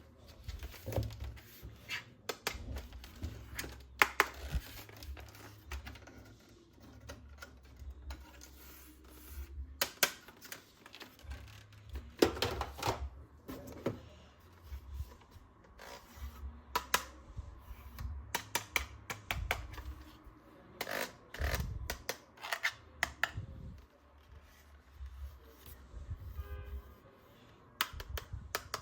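Plastic toy guns and their packaging being handled: irregular clicks, taps and scrapes, a few of them sharp knocks.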